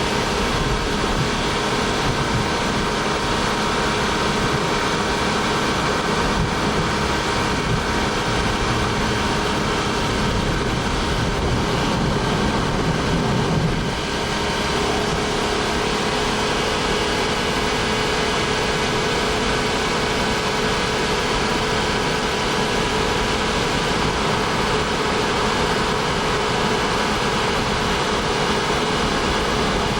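Honda S660's 658 cc three-cylinder turbocharged engine running steadily, with a brief low swell and a slight dip about fourteen seconds in.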